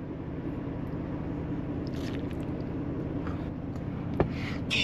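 Someone biting and chewing a mouthful of baked macaroni and cheese, soft and wet, over a steady low rumble in the truck cab, with a single sharp click about four seconds in.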